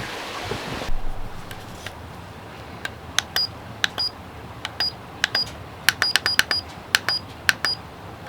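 A steady rushing hiss that cuts off about a second in, then a run of light, sharp clicks and clinks at irregular spacing, many of them leaving a brief high ring.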